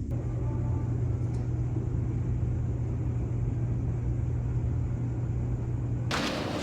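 Steady low mechanical hum. About six seconds in, a louder rushing, rattling noise suddenly takes over.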